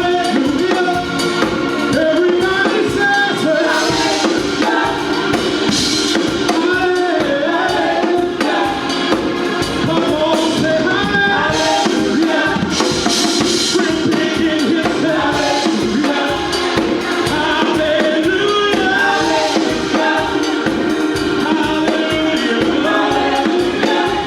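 Worship music: a song with singing over a band with a drum kit keeping a steady beat.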